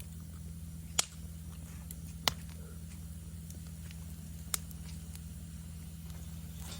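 Wood campfire crackling: scattered small ticks and three sharp, loud pops about one, two and four and a half seconds in, over a steady low hum.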